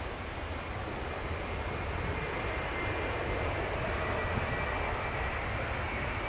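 Boeing 787-9 airliner's jet engines during a landing: steady jet engine noise with a faint high whine that dips slightly in pitch, growing a little louder about two seconds in.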